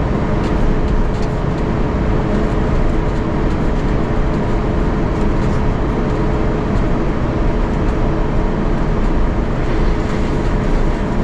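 Cabin noise inside an Airbus A350-900 taxiing after landing: a steady rumble from the Rolls-Royce Trent XWB engines at idle and the rolling wheels, with a steady hum over it.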